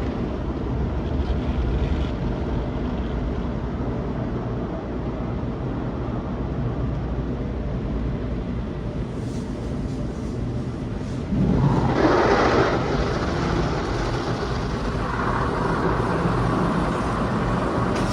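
Automatic tunnel car wash machinery running: a steady low rumble, with a sudden louder rush setting in about eleven seconds in and carrying on at a steadier level.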